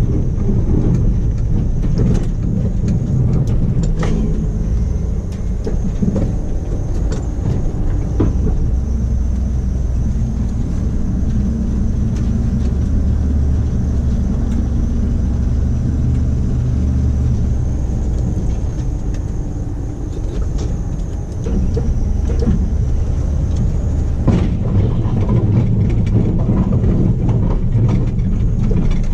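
1991 Dodge W350 pickup's 360 V8 running steadily under load while plowing snow, with a few scattered clicks and knocks.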